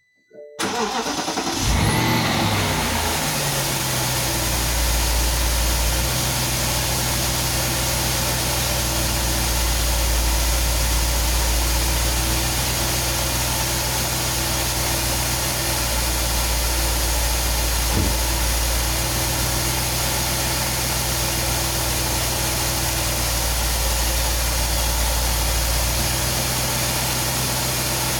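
BMW 645Ci's 4.4-litre V8 started from cold: it cranks briefly, catches about half a second in, flares up, then settles into a steady idle.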